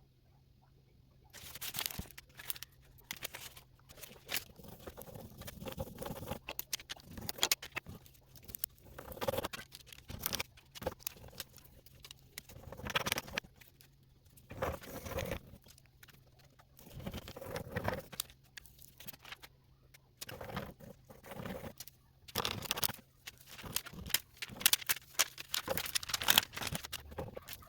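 Irregular scratching, rustling and light tapping, in short bursts with gaps between them, over a faint steady low hum.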